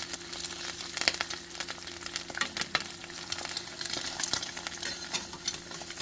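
Eggs frying in butter in a pan, a steady sizzle with frequent small crackles and pops, and a few sharper clicks, the loudest about a second in.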